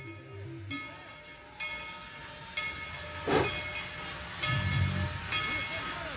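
Steam locomotive at the station with its bell ringing steadily, about once a second, over the hiss of steam. A short, loud gush of steam comes about halfway through.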